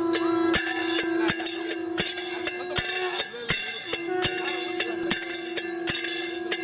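Temple bells ringing, struck at a regular beat about every 0.7 s, over a steady held tone.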